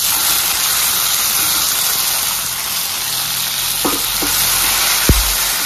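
Ginger-cumin paste sizzling loudly in hot mustard oil in a steel karahi, stirred with a metal spatula. The sizzle starts abruptly as the paste hits the oil and holds steady. A single thump comes about five seconds in.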